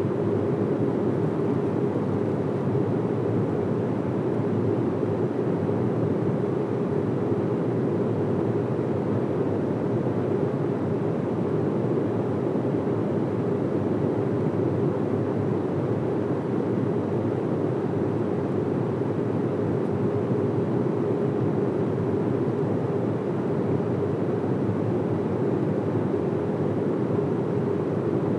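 Boeing 737 cabin noise at cruise: a steady, unchanging rumble of engine and airflow noise, deepest in the low range, with a faint steady hum running through it.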